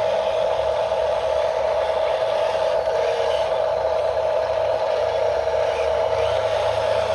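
Steady high whine of the small electric motors and gearing of radio-controlled construction models running, with faint scraping and rattling.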